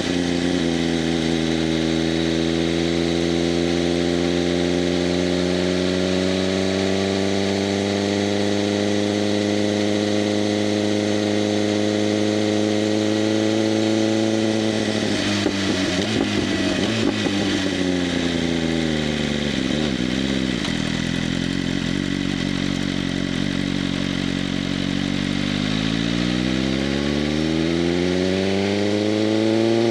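BMW M1000RR's inline-four engine through an SC-Project CRT exhaust with its valves open, holding steady revs while riding, then dropping in pitch about halfway as the bike slows. It runs at low revs for several seconds and climbs again near the end as it accelerates.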